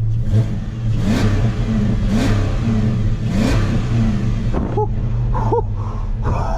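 2006 Dodge Charger R/T's 5.7-litre Hemi V8 running and revved in several short throttle blips, the engine pitch rising each time. It sounds like it is running smoothly, with no misfire, on a freshly replaced crankshaft sensor.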